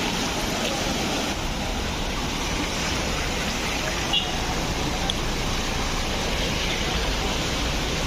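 Steady, even rushing of floodwater, with a brief click about four seconds in.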